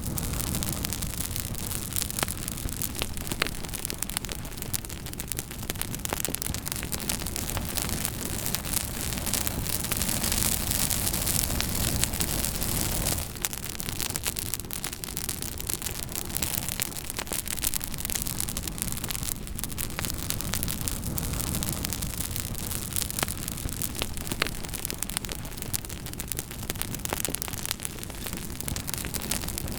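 Campfire burning, the wood crackling with frequent sharp pops over a steady rushing noise.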